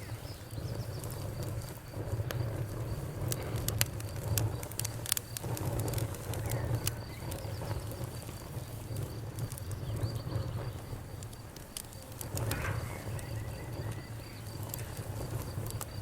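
Wood fire crackling: irregular sharp pops and snaps scattered throughout, over a steady low rumble.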